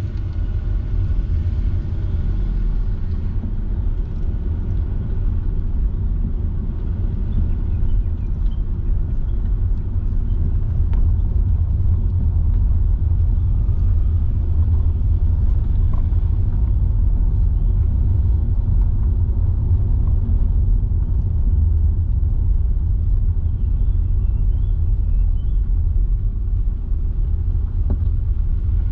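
Car driving steadily on a paved road: a constant low rumble of engine and tyre noise.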